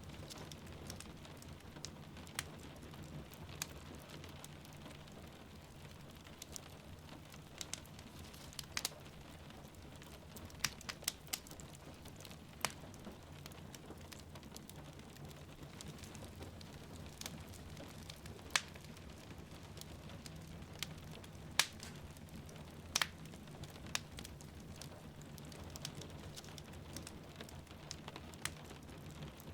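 Wood fire in a fireplace crackling, with irregular sharp pops and snaps over a steady rumble of rain falling. A few louder pops come in the second half.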